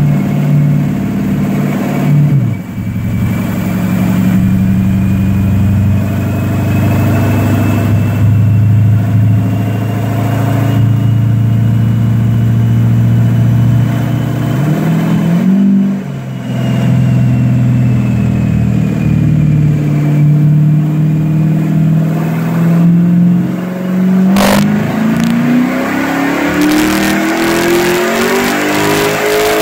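6.2-litre LS3 V8 in a stripped Corvette drift car running on a chassis dyno: it holds a steady engine speed for long stretches, easing off briefly twice, then pulls with the note rising steadily through the last several seconds. A single sharp crack sounds about three quarters of the way through, as the pull begins.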